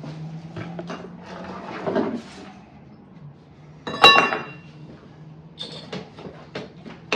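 Knocking and clattering of hand demolition on an old fireplace, with a thud about two seconds in and a loud ringing metal clang about four seconds in, over a steady low hum.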